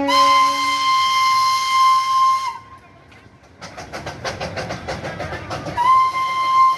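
Darjeeling Himalayan Railway toy train's whistle: one long steady blast that slides up slightly as it starts. After a short lull comes a quick rhythmic run of puffs or clicks, about five a second. A second long whistle blast starts near the end.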